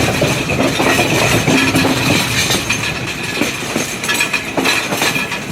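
Passenger train running, heard from on board: steady rolling noise with irregular clanks and rattles of the wheels and carriages over the track.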